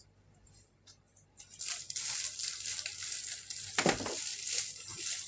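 Crinkling and rustling, starting about a second and a half in, with one dull thump near four seconds in.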